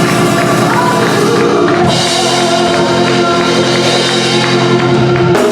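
Gospel music: singing over drums and instruments, settling into a long held chord about two seconds in that ends just before the close.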